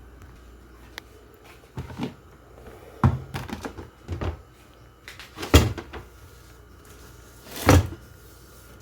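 Kitchen cupboard doors and cookware being handled: a series of separate knocks and thumps, the loudest about five and a half seconds in.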